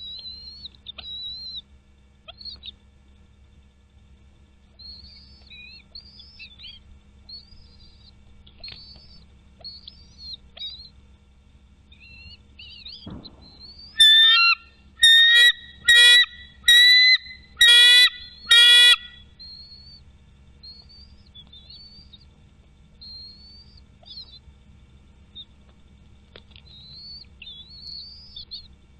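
Bald eagles calling at the nest: faint, high chirping notes throughout, and about halfway through a thump followed by a series of six loud, ringing calls of about half a second each.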